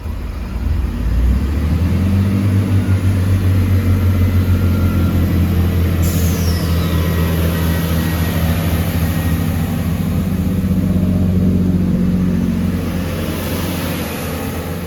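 Great Western Railway Class 165 diesel multiple unit pulling away from the platform. Its diesel engines build up about a second in to a loud, steady low drone, then ease off near the end.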